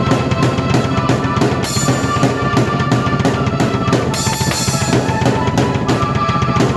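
Drum kit and keyboard playing together at a fast tempo: a dense beat of bass drum and snare under held keyboard notes, with cymbal crashes about two seconds in and again about four seconds in.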